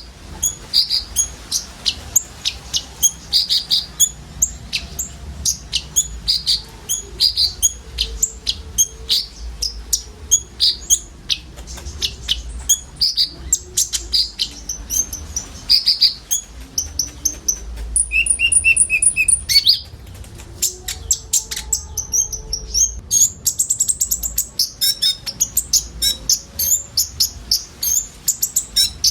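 Several konin (kolibri ninja) sunbirds calling together in a busy chorus of rapid, sharp, high chirps and short twitters, with a longer buzzy trill about two-thirds of the way through.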